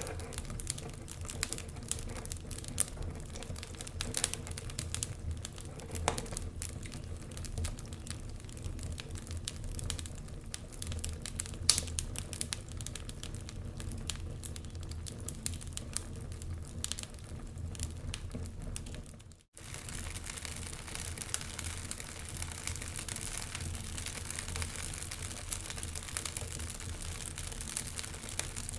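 Wood fire crackling, with irregular sharp pops and snaps over a low rumble. The sound drops out for an instant about two-thirds of the way through; after that the crackle turns to a denser, more even hiss with fewer distinct pops.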